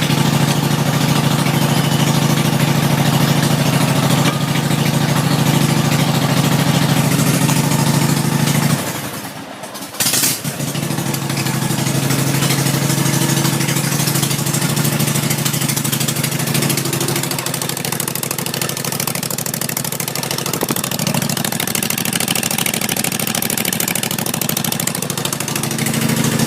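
Engine of a straight-piped Cub Cadet RZT zero-turn mower running loud and steady through its open exhaust. About nine seconds in the sound drops away briefly, a sharp crack comes a second later, and the engine runs on.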